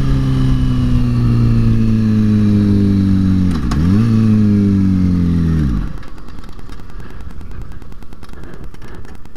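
2005 Kawasaki ZX-6R's 636 cc inline-four engine running with its pitch falling steadily, dipping sharply and recovering once about halfway through, then cutting out suddenly about six seconds in: the engine has died while riding, which the rider thinks may be a weak battery. Only wind and road noise follow as the bike coasts.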